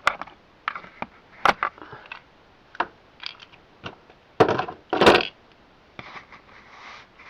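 Hard plastic Beyblade X parts being handled: scattered clicks and knocks, with a louder rattling scrape about four and a half seconds in.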